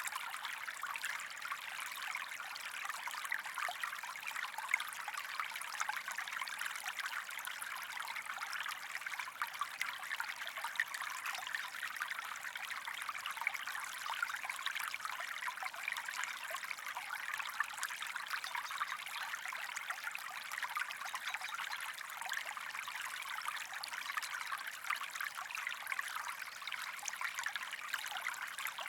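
Stream water trickling and babbling over stones, a steady bright splashing with fine crackles.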